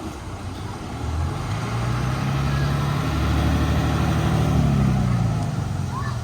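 A motor vehicle's engine running at a steady pitch as it passes, growing louder from about a second in and fading near the end.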